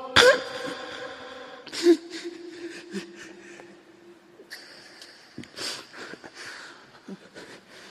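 Pause in a man's Quran recitation: the held note of the previous phrase cuts off at the start, then the reciter draws several audible breaths with small mouth and throat noises.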